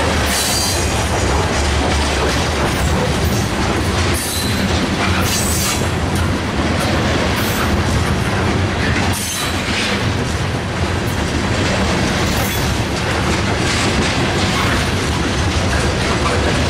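Cars of a mixed freight train (tank cars, gondolas, autoracks) rolling past close by: a steady, loud rumble and clatter of steel wheels on the rails, with brief high wheel squeals every few seconds.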